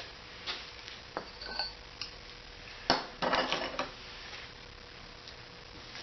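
Cast aluminium muffler pieces clinking as they are handled. There are a few light clicks, then a sharp strike about three seconds in and a short metallic clatter, over a faint steady hum.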